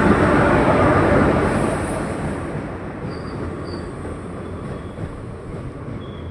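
Passenger express train rolling into the platform: a steady rumble of coach wheels on the track, loudest at first and easing off as the train slows, with two short high squeaks about halfway through.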